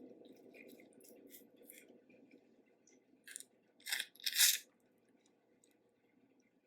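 Close-up eating sounds from a seafood boil: soft chewing for the first couple of seconds, then a few short crunchy cracks, the loudest about four and a half seconds in.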